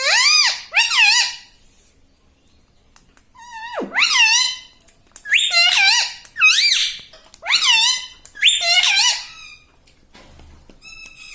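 Pet parrot giving about seven high, squeaky calls, each bending up and down in pitch: two at the start, then after a pause five more in quick succession.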